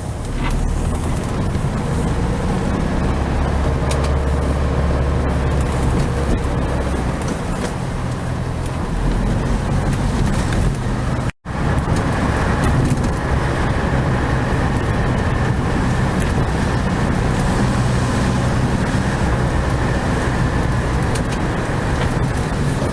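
1969 VW Beetle 1500's air-cooled flat-four engine running as the car drives, with road and tyre noise, the engine note shifting now and then. The sound breaks off for an instant about halfway through.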